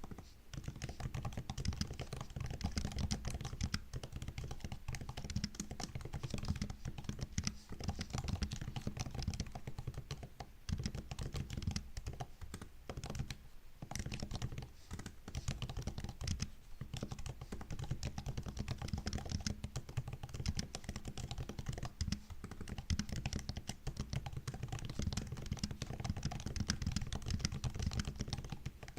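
Continuous fast typing on a MacBook laptop keyboard: a dense run of soft key clicks and taps, with a couple of brief pauses about halfway through.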